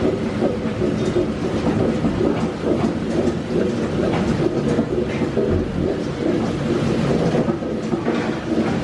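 A passing train: a steady rumble and rattle of rolling rail cars.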